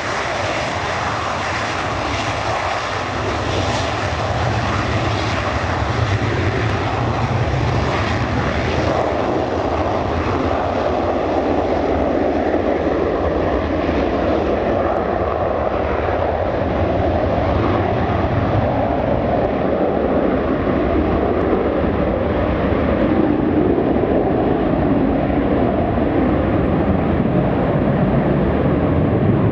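Boeing 727-200's three Pratt & Whitney JT8D turbofans roaring at take-off power, a continuous jet roar whose high hiss gradually fades while the low rumble carries on.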